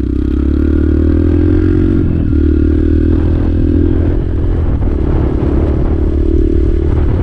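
Motorcycle engine running at low, fairly steady revs as the bike is ridden slowly over rough trail ground, heard through a helmet-mounted microphone.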